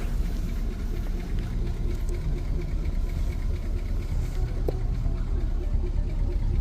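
Buick Skylark engine idling steadily after a cold start.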